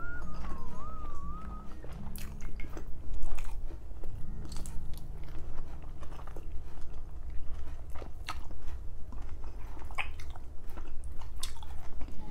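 Close-miked chewing and wet mouth sounds of a person eating tender boiled pork leg with rice. Scattered soft clicks and smacks run throughout.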